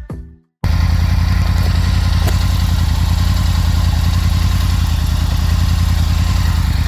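Motorcycle engine idling steadily with an even low beat, cutting in sharply just over half a second in.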